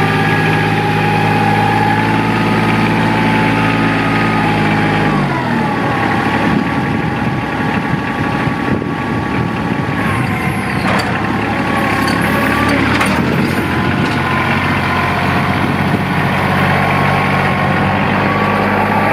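Compact diesel tractor engine running. Its steady note shifts and turns rougher about five seconds in, with a few light clinks, then settles back to a steady run from about two-thirds of the way through.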